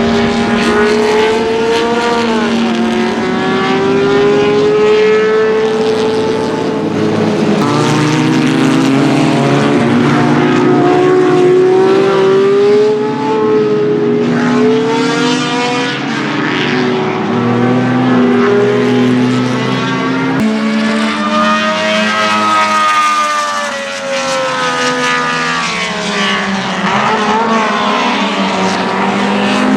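Historic 1.5-litre Formula One cars at racing speed, the Ferrari 1512's flat-12 among them, with several engines at once revving up and down through gear changes as they pass.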